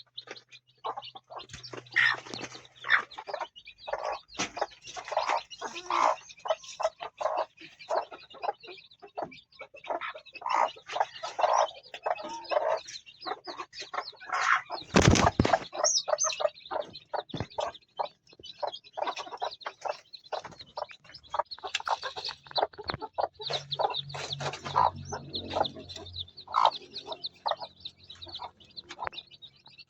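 Chickens clucking and calling in short, irregular bursts, with one loud sudden knock about halfway through.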